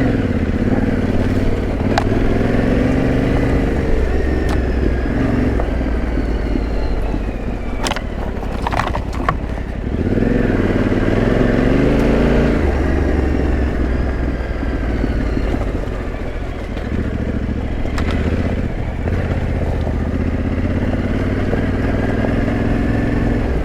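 Yamaha Ténéré 700's parallel-twin engine running at low speed off-road, its pitch rising and falling with the throttle, with a few sharp knocks partway through.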